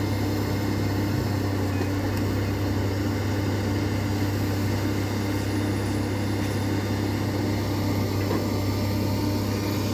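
A heavy engine running steadily at a constant speed, a low even hum with no revving or impacts.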